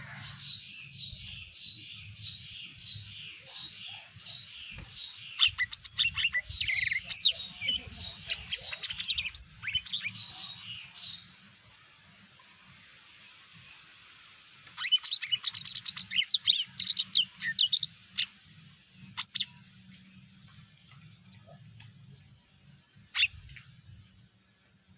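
Green leafbird (cucak ijo) singing. It starts with a run of repeated falling whistled notes, about two a second, then moves into a louder, varied warbling phrase. After a short pause comes a fast burst of sharp notes, with a couple of single calls near the end.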